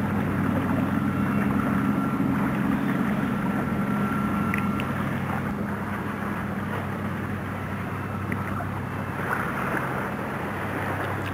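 Motorboat engine running steadily, its low drone weakening after about five seconds, over a hiss of wind and water.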